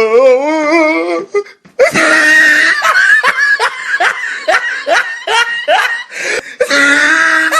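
Loud laughter: a wavering drawn-out cry, then a run of short laughing bursts, about two a second.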